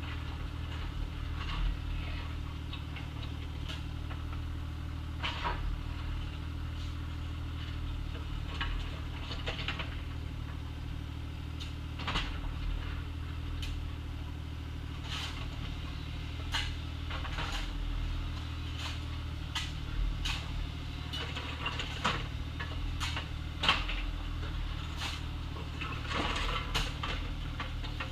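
Bobcat excavator's diesel engine running steadily under load, with irregular sharp clanks and knocks of the bucket and stones as it digs gravel and dirt. The sharpest knock comes about three-quarters of the way through.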